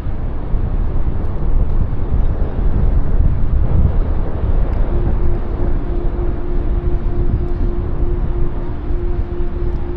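Wind buffeting the action camera's microphone, a loud low rumble that keeps surging. About halfway through, a steady pitched hum from some machine joins it and holds.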